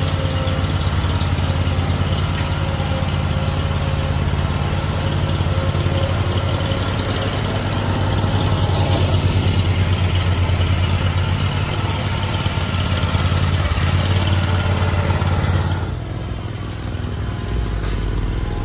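Lawn mower engine running steadily at a constant speed, getting quieter about three seconds before the end.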